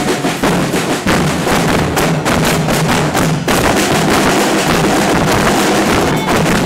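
Carnival murga drum section playing loudly: bass drums struck in a driving rhythm with cymbal crashes over them. About halfway through, the sound thickens into a denser, steadier wash.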